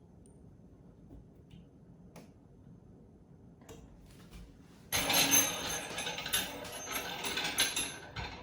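A screw being driven home with a screwdriver to fix a wall rail: a few faint clicks, then from about five seconds in a loud, rattling run of clicks for about three seconds, easing off near the end.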